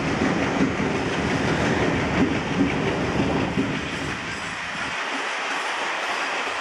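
Passenger coaches of a slow-moving train rolling past, the wheels clattering over rail joints with a low rumble. The deep rumble drops away about five seconds in.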